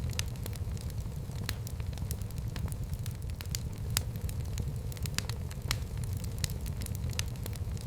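Fire burning in a fireplace: a steady low rumble of flames with irregular, sharp crackles and pops several times a second.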